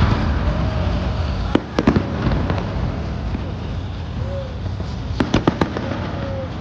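New Year fireworks display bursting overhead: a continuous rumble of distant bursts and crackle, with a few sharp bangs about one and a half to two seconds in and a quick cluster of bangs about five seconds in.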